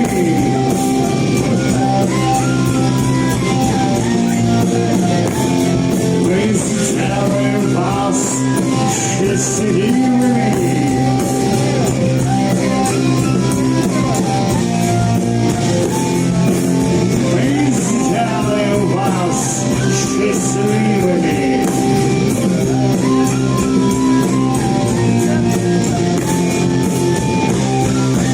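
Rock band playing live: electric guitar over bass and drums, with a steady beat.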